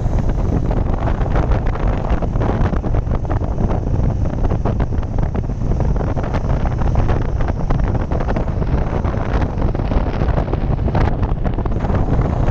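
Wind buffeting the microphone of a camera on a moving motorcycle at speed, a loud, steady rumbling roar with constant fluttering.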